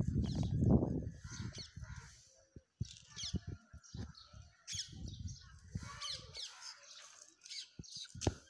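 Small birds chirping in short, high, quick calls throughout. A loud low rumble on the microphone fills the first second and a half, and a few sharp clicks come near the end.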